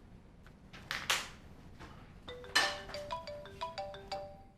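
Mobile phone ringing with a short marimba-like ringtone melody of quick separate notes, starting about halfway in, after a couple of brief rustling knocks.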